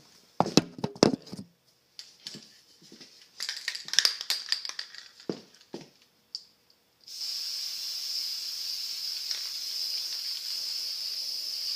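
A few sharp knocks and clatter of handling, then from about seven seconds in a steady hiss of an aerosol can of green spray paint spraying.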